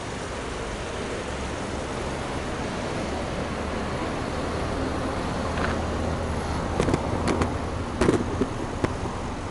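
Subaru Legacy Touring Wagon's EJ25 2.5-litre flat-four (boxer) engine idling steadily. A few sharp clicks come near the end.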